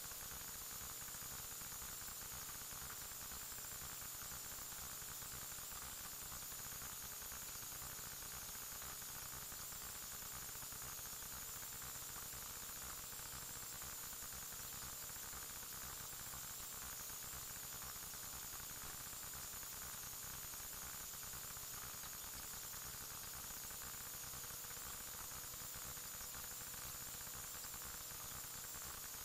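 Steady static hiss with a faint high whine and a faint low hum that slowly wavers in pitch: the recorder's own electronic noise, with no other sound.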